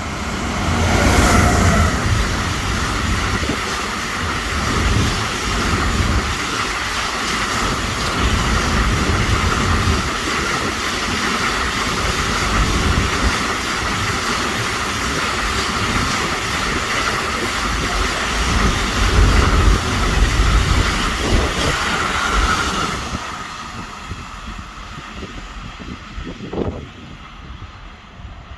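Freight train passing on the rails, its wagons' wheels rumbling steadily with a high ringing edge. It dies away about 23 seconds in as the end of the train goes by.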